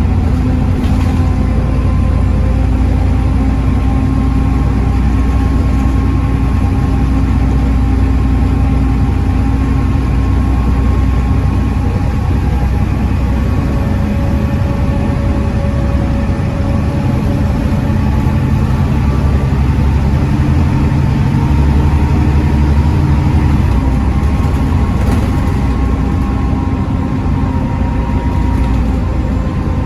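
Volvo B7TL double-decker bus's 7.3-litre Volvo D7C diesel engine running with its ZF Ecomat automatic gearbox, the engine note steady but stepping up or down several times.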